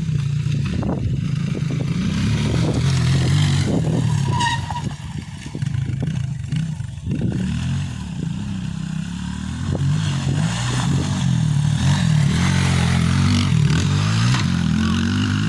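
Motocross dirt bike engine running and revving, its pitch rising and falling again and again.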